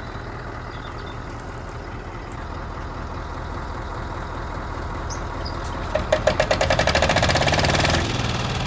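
Engine idling steadily. Near the end it breaks into a louder, fast, even clatter for about two seconds.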